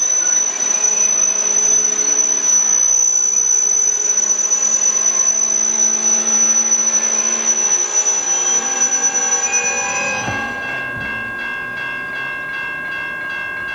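Freight train of covered hopper cars rolling past, its wheels running on the rails with a steady high-pitched squeal. About ten seconds in, the squeal stops and a different set of steady ringing tones takes over, slightly quieter.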